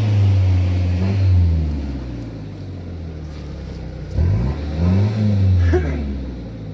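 A four-wheel-drive vehicle's engine running off-road. It eases off about a second in, then is revved twice in short bursts in the second half.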